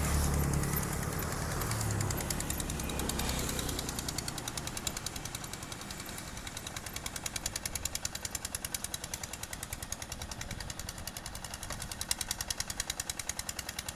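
Engine of a tractor ploughing a rice paddy, chugging in a rapid, even beat; a heavier low rumble in the first few seconds eases into steady pulses.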